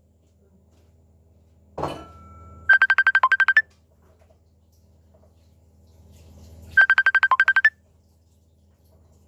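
Electronic phone-style ringtone: a fast trill of about a dozen beeps lasting about a second, heard twice about four seconds apart. A brief rough noise comes just before the first trill.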